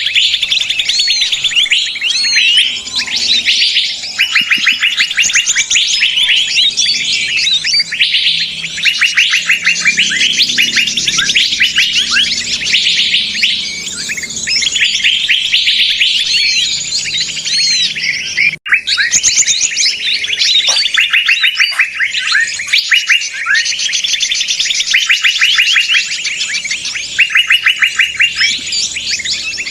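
Bird-lure recording of many small songbirds chattering at once: a dense, loud, overlapping chorus of rapid chirps and trills, the busy 'noisy flock' call used to draw wild birds in for trapping. It breaks off for an instant about two-thirds of the way through, then carries on.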